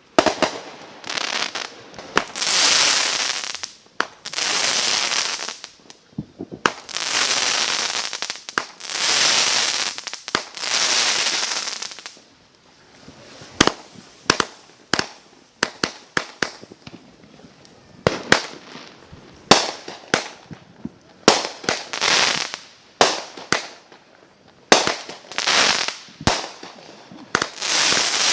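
Consumer fireworks going off: a run of hissing spurts about a second each, then a quick string of sharp cracks and pops from about halfway through.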